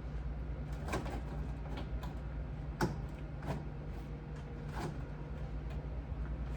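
Scattered light knocks and clicks from refrigerator parts being handled during cleaning, over a steady low hum. The sharpest knock comes about three seconds in.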